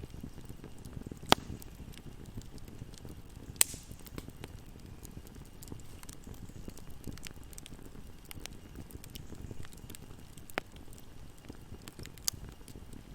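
Wood fire burning in a fireplace: a steady low rumble of flames with scattered light crackles and a few sharp pops.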